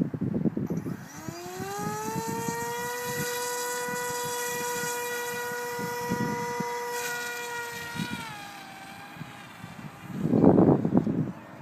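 Electric motor and propeller of an AXN RC model plane winding up to a steady high whine, holding for about five seconds, then throttling back and falling in pitch. Wind buffets the microphone at the start and loudest near the end.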